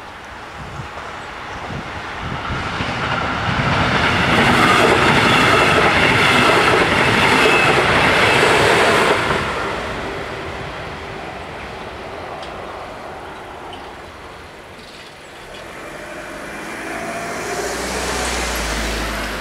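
A DB class 111 electric locomotive hauling double-deck coaches passes over the level crossing: the rush of wheels on rails swells to a loud peak about four seconds in, holds for about five seconds, then fades away. Near the end a lower, deep rumble rises as the crossing barriers lift.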